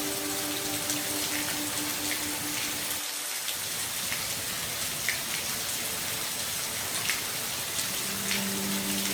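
Steady rain falling, a continuous hiss with scattered individual drops ticking on a surface. A faint steady low hum sits under it in the first three seconds and comes back near the end.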